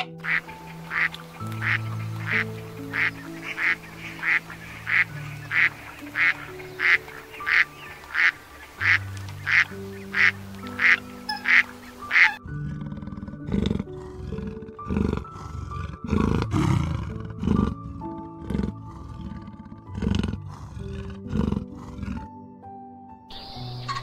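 Gentle instrumental music with waterfowl calls over it. In the first half, short sharp calls repeat at a very even pace of about two a second. Partway through, these give way to irregular duck quacking.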